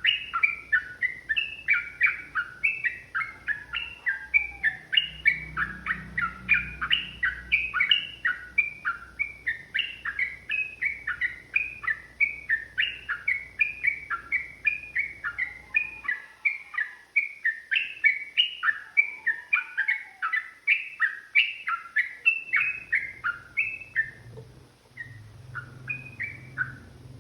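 Yellow-vented bulbul (trucukan) singing a long, rapid, unbroken run of chattering notes, several a second, that thins out and stops near the end.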